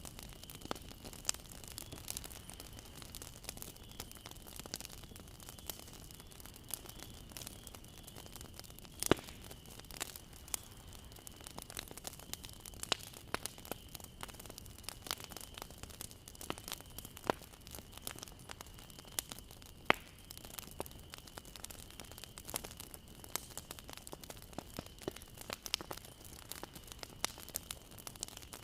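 Bonfire burning with a steady low hiss and irregular sharp crackles and pops, two louder snaps about nine and twenty seconds in. A faint steady high tone runs underneath.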